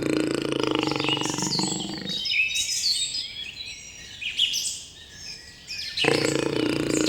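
Small birds chirping and twittering rapidly in high, gliding notes. For the first two seconds or so, and again from about six seconds in, a dense, steady low sound plays underneath.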